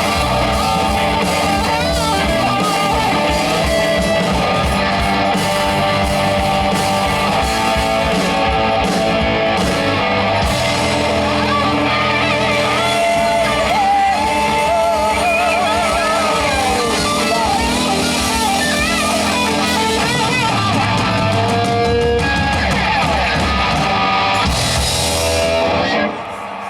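Rock band playing, an electric guitar to the fore over bass and drums, with a wavering, bending lead line in the middle. The song stops abruptly about a second before the end.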